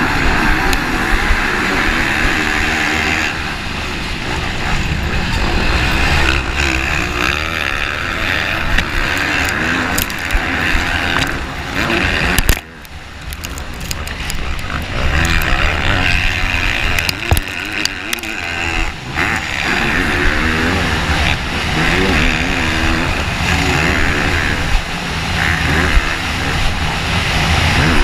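Motocross motorcycle engine running hard, its pitch rising and falling as the throttle opens and closes through the lap. About halfway through the engine note suddenly drops away, then builds back up over a couple of seconds.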